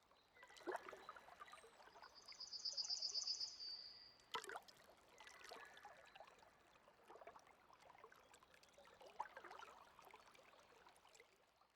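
Faint outdoor ambience on the water: light water trickles and small knocks, with a high, rapid bird trill lasting about two seconds a couple of seconds in, and a sharper knock just after it.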